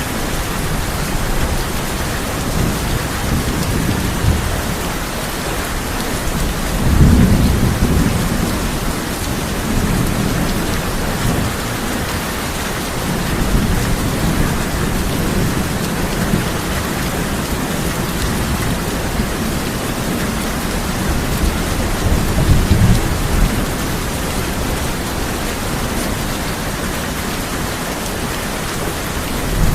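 Steady heavy rain drumming on a tin roof, with rolls of thunder rumbling low, loudest about seven seconds in and again around twenty-two seconds.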